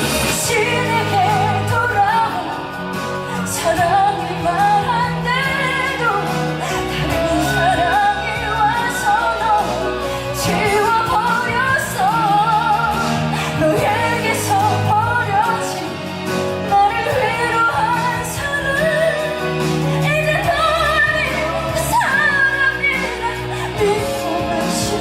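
A woman singing a slow Korean ballad with strong vibrato over a full instrumental accompaniment.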